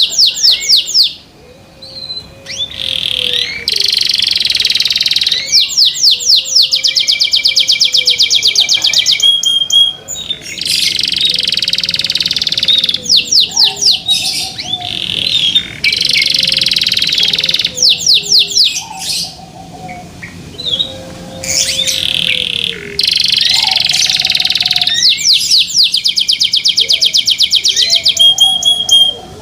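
A canary singing loudly: long song phrases of fast, rolling trills, broken by short pauses. A softer, lower call repeats every couple of seconds underneath.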